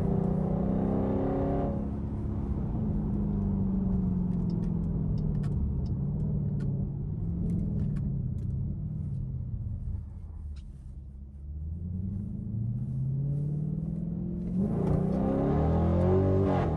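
Straight-piped Dodge Durango's engine and exhaust accelerating hard at the start, its pitch climbing, then easing off to a lower, quieter drone in the middle. Near the end it pulls hard again and the pitch climbs steeply.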